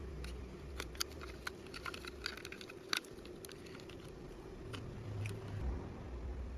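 Scattered sharp clicks and light taps of small parts and hand tools being handled while a control module is taken apart, the loudest about a second in and about three seconds in, over a low steady hum.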